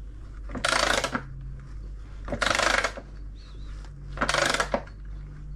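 A wrench tightening a makeshift press that draws a new drum bearing into a washing machine's tub housing: three short metallic rasping strokes about a second and a half apart, over a low steady hum.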